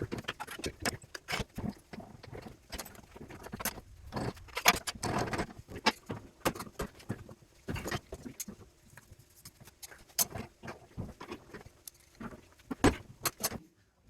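Irregular metallic clinks, taps and clatter of copper and metal parts from a cooling unit being handled and taken apart, with a louder cluster of knocks near the end.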